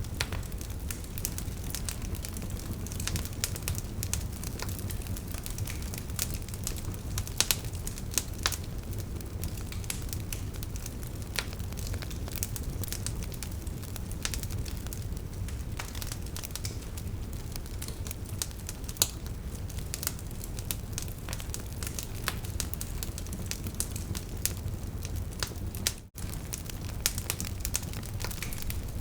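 Wood fire burning with a steady low rush of flame and frequent sharp crackles and pops from the burning logs, a few louder than the rest. The sound drops out for an instant near the end.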